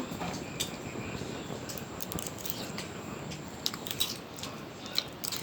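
A person chewing a mouthful of seblak, with wet mouth sounds and a few sharp clicks, several of them near the end.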